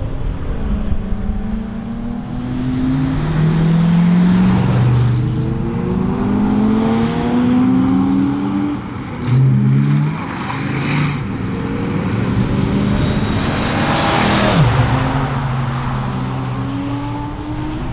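Chevrolet Nova's engine accelerating hard through the gears, its pitch climbing and dropping back at each shift. About fourteen seconds in comes a brief loud rush of noise with a falling pitch, like the car sweeping past.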